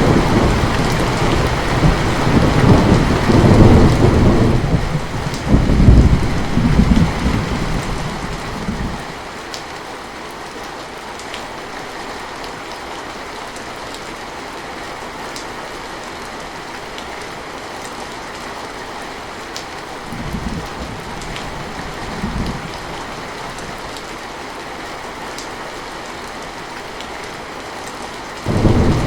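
Heavy rain falling steadily, with rolling thunder rumbling over it that dies away about a third of the way in. Two short, faint rumbles come later, and a loud thunder rumble breaks in suddenly near the end.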